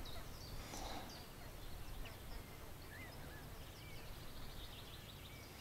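Quiet background hiss with a few faint, short bird chirps scattered through it.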